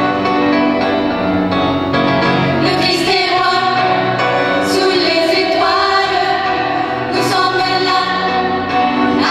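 Choir singing a song with instrumental backing.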